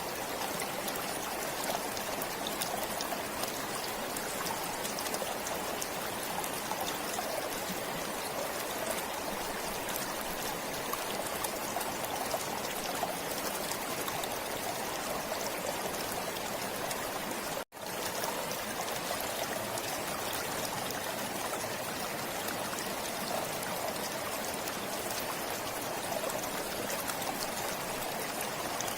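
Forest stream flowing steadily, an even rush of running water. The sound cuts out completely for a split second about two-thirds of the way through.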